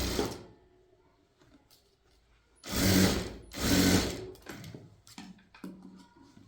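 Sewing machine running in stop-start bursts: a short run at the very start, two loud runs about three and four seconds in, then shorter, softer runs near the end.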